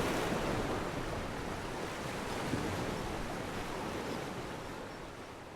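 Ocean surf washing in, a steady hiss of waves that slowly fades out.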